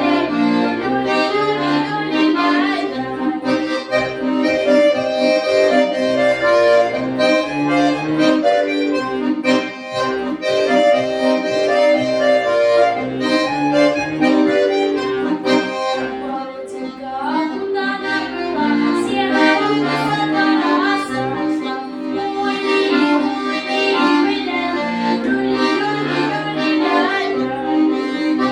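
Accordion playing a Russian folk song tune, with a melody over steady chords and bass notes that change every half second or so.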